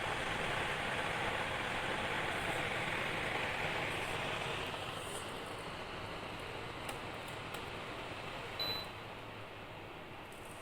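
Midea evaporative air cooler's fan blowing, a steady rush of air that comes up at the start and eases to a lower level about halfway through. One short high beep sounds near the end.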